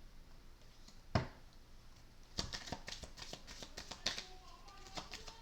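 Tarot cards being handled on a table: one sharp tap about a second in, then a run of quick light clicks and flicks.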